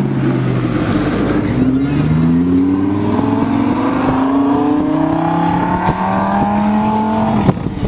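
A car engine accelerating hard away from the spot: its note climbs steadily for several seconds, then cuts off abruptly near the end.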